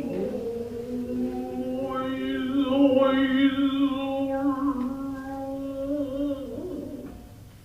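A singer of traditional Japanese dance music holding one long chanted note, slightly wavering, which fades out near the end.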